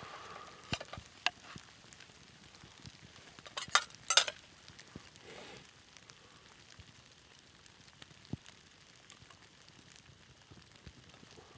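Food faintly sizzling and crackling in a pan over a campfire, with scattered sharp ticks and a cluster of loud knocks about four seconds in.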